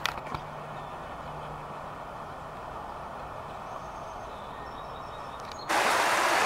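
A steady, distant background rumble. About five and a half seconds in it cuts suddenly to the loud, even rushing of a creek running high after heavy rain.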